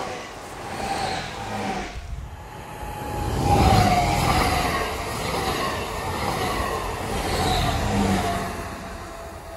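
RER D electric commuter train running past, its motor whine falling slowly in pitch. The sound changes abruptly about two seconds in and swells to its loudest a second or two later.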